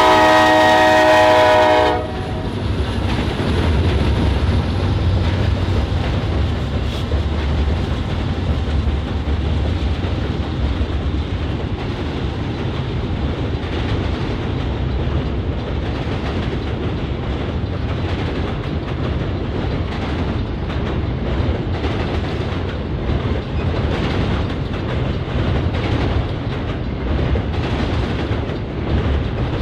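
Norfolk Southern freight train's locomotive air horn sounding a chord of several tones, cutting off about two seconds in. Then the steady low rumble of the train rolling past, with wheels clacking over the rail joints.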